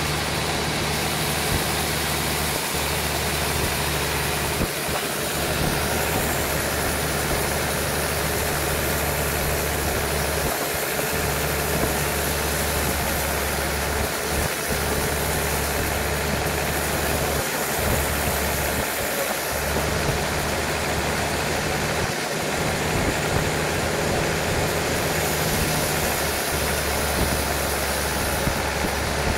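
Sawmill engine running steadily with a constant low hum.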